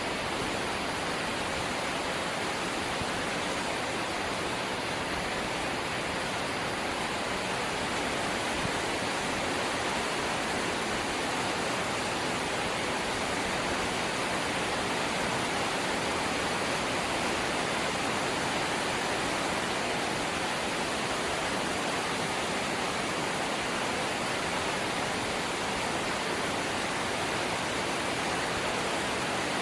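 Light rain falling steadily: an even hiss at a constant level, with no single drops or gusts standing out.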